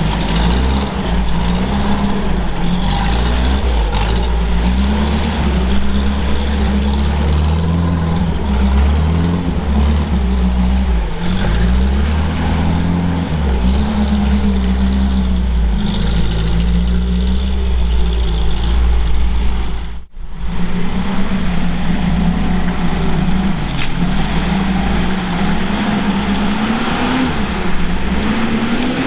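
Off-road vehicle engine running under load and revving, its pitch rising and falling over and over, with a brief sudden break about two-thirds of the way through.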